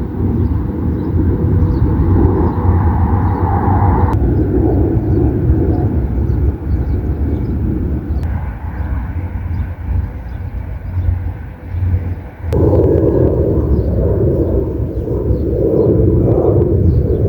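Outdoor ambience: a steady low rumble with faint high bird chirps over it. The sound changes abruptly about four, eight and twelve seconds in, where one recording is cut to the next.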